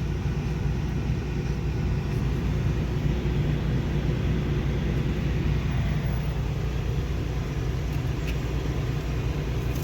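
Steady low rumble of a semi truck's diesel engine running.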